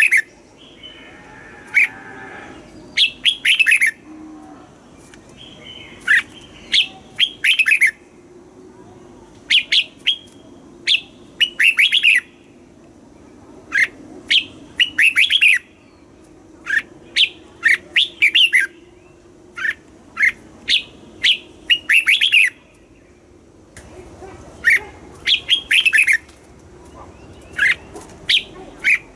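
Red-whiskered bulbul singing: short, bright phrases of a few quick clipped notes, repeated every second or two with a brief pause a little past the middle.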